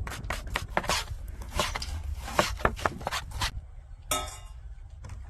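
Knife chopping food on a cutting board: a quick, irregular run of sharp chops that stops about three and a half seconds in. A brief bright rasping sound follows about four seconds in.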